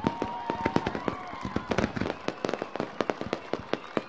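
Fireworks going off in rapid, irregular succession: many sharp bangs and crackles several times a second, with a high whistle held through the first second or so.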